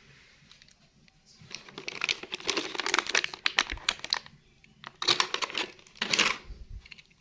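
Crinkling and rattling of handled plastic, in three spells: a long one starting about a second and a half in, then two short ones near the end.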